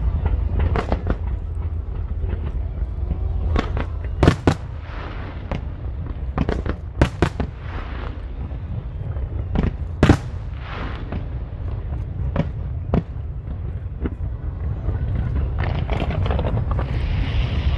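Aerial fireworks bursting: a string of sharp bangs at irregular intervals, the loudest about four and ten seconds in and a quick cluster around seven seconds, over a steady low rumble. A hissing swell builds near the end.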